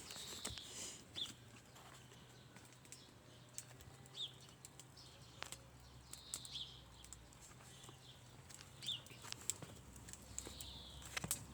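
Campfire of sticks and pine cones crackling, with scattered sharp pops and clicks throughout. About six short, high chirps come at irregular intervals.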